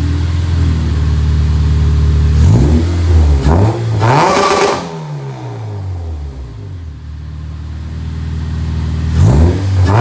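Car engine idling, then revved up hard and let fall back twice, its pitch climbing and dropping each time. The second rev begins near the end.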